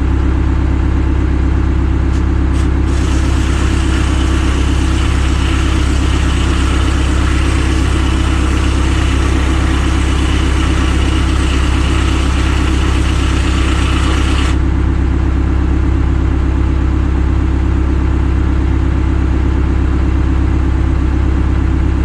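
Engine running steadily at a constant speed. An added hiss sits over it from about three seconds in and cuts off suddenly about fourteen seconds in.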